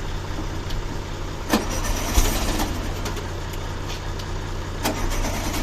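Car engine running steadily at idle, with two sharp clicks, one about a second and a half in and one near the end.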